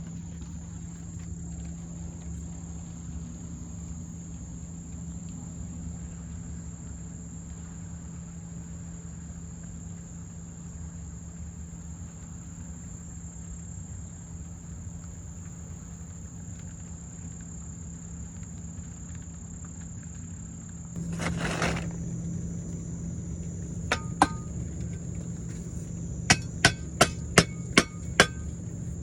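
Steady high-pitched insect drone, with a steady low hum under it. About two-thirds of the way through comes a second of noise. Near the end come sharp, ringing strikes: two single ones, then a quick run of about eight at roughly four a second.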